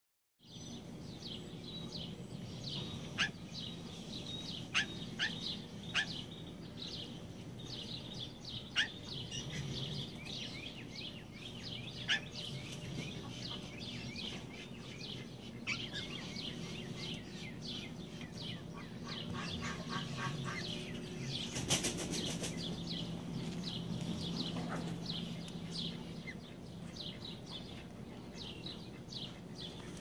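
Birds chirping: a steady run of short, quick chirps, with a few sharper, louder calls standing out, most of them in the first ten seconds, over a steady low hum.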